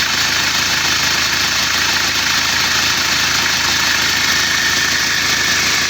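Isuzu Panther's four-cylinder diesel engine idling steadily, with a loud, even exhaust hiss, while the newly fitted exhaust gasket is checked for leaks.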